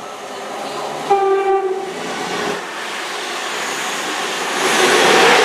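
CrossCountry Class 221 Voyager diesel multiple unit giving one short horn blast about a second in. Then the rush of the train passing through the station builds up loudly near the end.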